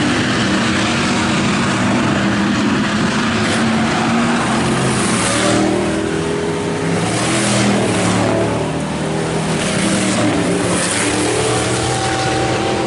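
Pack of IMCA Hobby Stock race cars running at speed around the track, several engines at once. The sound swells several times in the second half as cars pass close by.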